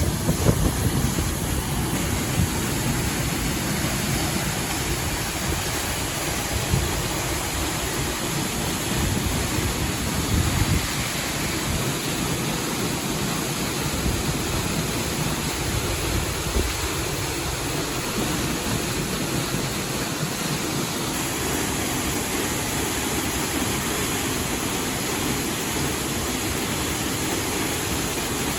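Steady rushing of a mountain river's water, with some low gusts of wind on the microphone in the first ten seconds or so.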